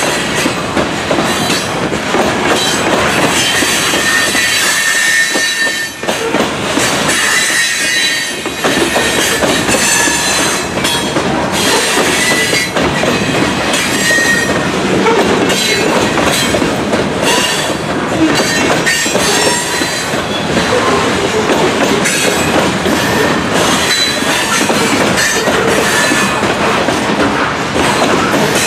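Loaded grain hopper cars of a freight train rolling past, wheels clattering over the rail joints with intermittent faint wheel squeal.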